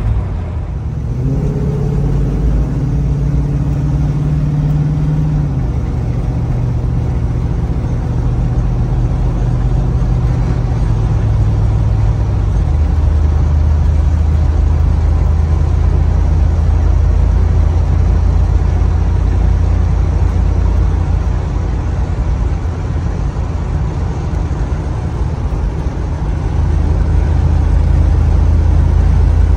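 6.0L Vortec V8 engine of a 1979 Jeep Cherokee Chief heard from inside the cab while driving. The engine note drops in steps twice, like upshifts, then settles into a steady low drone over road noise. It grows a little louder near the end as more throttle is given.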